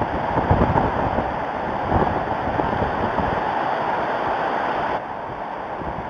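Wind gusting and buffeting the nest-cam microphone as a rough, steady rush with stronger gusts, dropping suddenly in level near the end.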